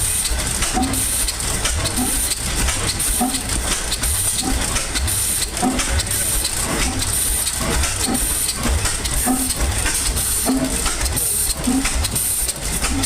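Old Evans Manufacturing Company stationary engine running, with a rhythmic beat about once a second over a steady hiss.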